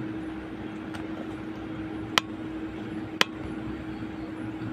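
Steady whirring hum with a constant low tone, broken by two sharp clicks about a second apart.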